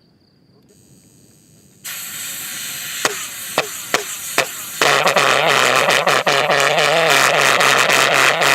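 Model Pulso pulsejet engine starting: a rushing hiss of air, four sharp pops as it fires, then about five seconds in it catches and runs loud with a steady low-pitched drone.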